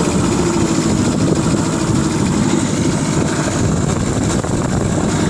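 1998 Mercury 25 hp outboard motor running steadily.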